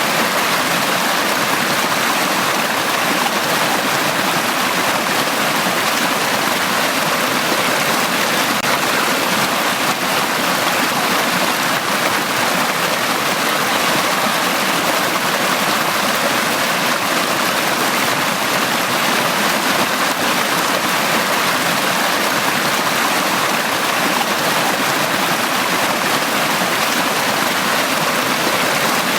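Valley stream water flowing, a steady even rush with no breaks or changes.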